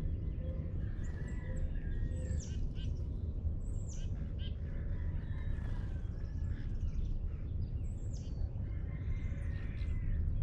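Birds singing and calling at dawn: several short, sharply falling high whistles and softer chirps, over a steady low rumble of background noise.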